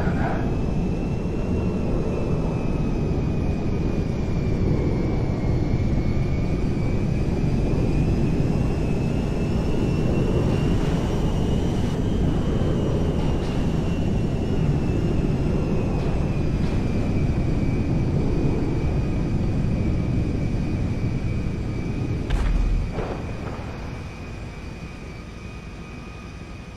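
Airplane engine noise: a steady rush with a thin high whine that slowly rises and falls in pitch. A thump comes about 22 seconds in, and the noise then gradually gets quieter.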